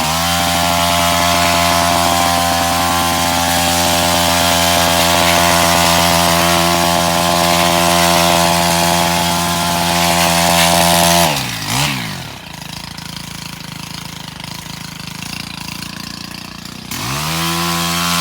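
Small petrol engine on a cutting tool running at steady high revs, dropping back to idle about eleven seconds in, then revving up again near the end.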